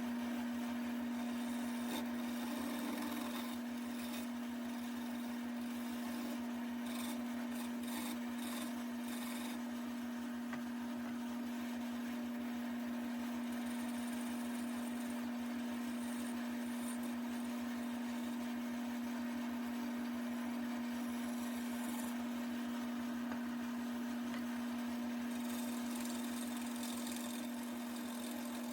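Wood lathe running with a steady motor hum while a turning tool cuts into a spinning walnut table leg, with louder spells of scraping cutting noise about a quarter of the way in and again near the end.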